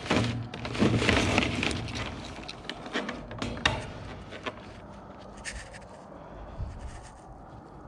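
Scraping and clattering of objects being shifted and handled, loudest in the first two seconds, with a couple of sharp knocks around three to four seconds in, then quieter.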